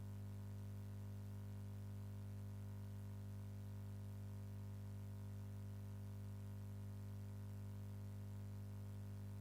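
Steady low hum, with no change and no speech.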